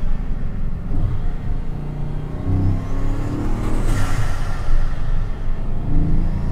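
Bugatti Chiron Sport's quad-turbocharged W16 engine accelerating up a mountain road, with a thin turbo whistle rising in pitch. About four seconds in the boost is released in a sharp burst of hiss, and near the end another whistle climbs as the engine pulls again.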